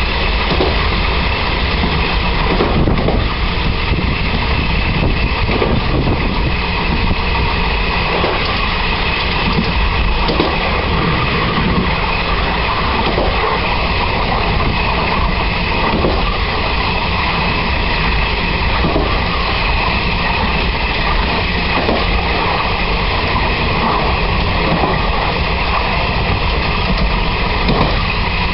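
Running noise of a Taiwan Railway SPK2300 air-conditioned coach on the move: a steady rumble of wheels on rail, with a few faint knocks now and then.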